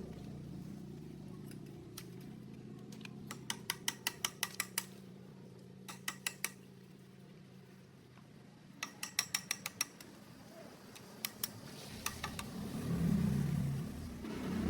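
Steady low mechanical hum, broken by several short bursts of rapid metallic clicking at about six to eight clicks a second. The hum swells louder near the end.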